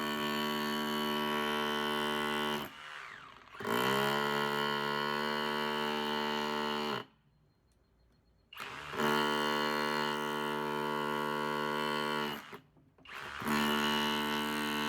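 Kobalt 24V cordless rotary hammer in chisel-only mode, hammering in four runs of about three to four seconds, stopping briefly between them. Each run is a steady, even-pitched rattle of rapid blows, picking up speed as it starts.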